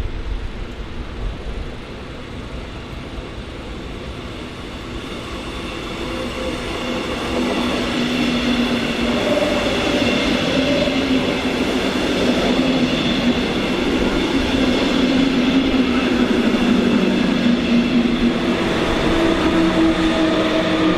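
Electric passenger train pulling into the station platform, getting louder from about six seconds in, with a steady whine of several tones from its drive and brakes over the rolling noise.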